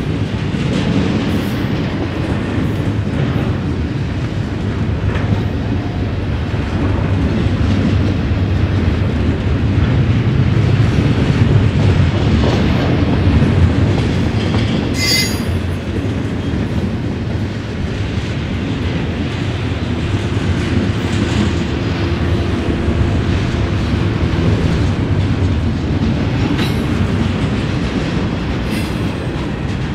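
Freight train cars rolling past at steady speed, wheels clicking over the rail joints. A brief high-pitched wheel squeal comes about halfway through.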